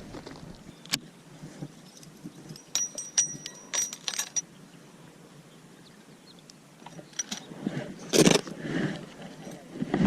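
Light metallic clicking and jingling of fishing tackle a few seconds in, then splashing on the water near the end.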